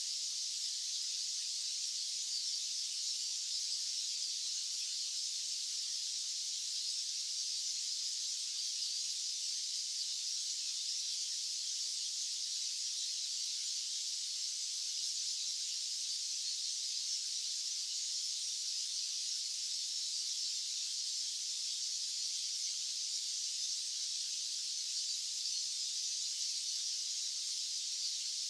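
Steady, high-pitched hiss of a white-noise track, unchanging, with no low rumble in it.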